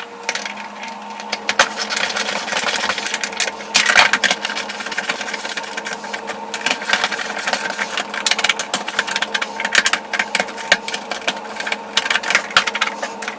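A steady mechanical whir holding a constant pitch, with a dense clatter of small clicks and rattles over it.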